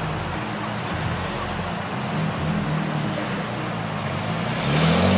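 A car engine idling unevenly, then revving up with rising pitch near the end.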